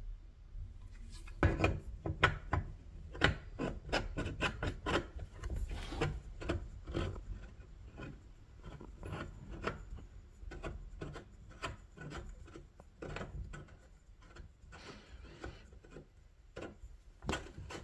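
Steel pipe legs of a mini trampoline being screwed by hand into the frame: irregular scraping and clicking of the metal parts, starting about a second and a half in.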